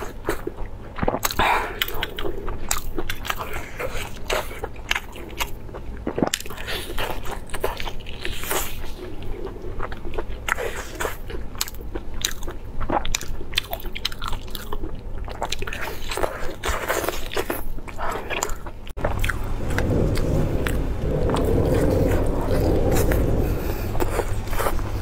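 Close-miked biting and wet chewing of lamb intestines stuffed with meat, with many sharp mouth clicks and smacks. About nineteen seconds in, the sound changes abruptly to a denser, fuller chewing.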